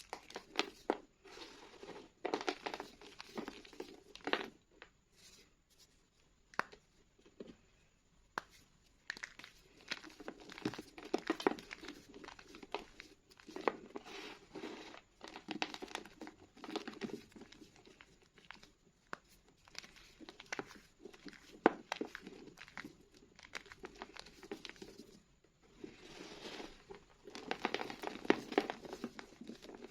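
School chalk being crumbled and crushed by hand: irregular crunching and crackling that comes in bursts with short pauses, with one sharper crack about two-thirds of the way through.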